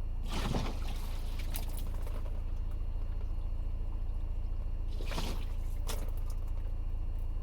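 Water poured onto a car windscreen treated with Rain-X, splashing twice: once just after the start and again about five seconds in. A steady low hum runs underneath.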